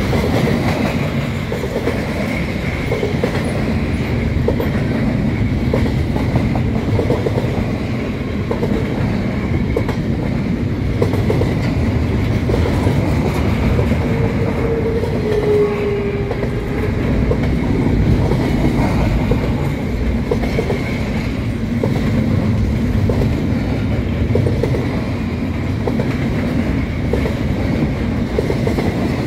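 Double-stack container well cars of a long freight train rolling past close by: a steady rumble of steel wheels on rail with a clickety-clack from the wheels. A brief wheel squeal comes about halfway through.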